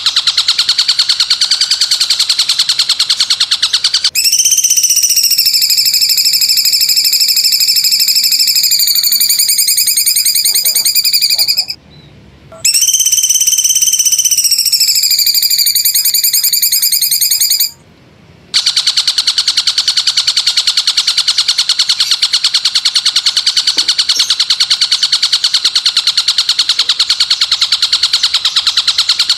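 Masteran songbird-training recording of high-pitched calls: a rapid, shrill buzzing trill, interrupted about four seconds in by two long piercing whistles, each several seconds long, that slide down in pitch and cut off sharply with a brief silence after each, before the buzzing trill resumes.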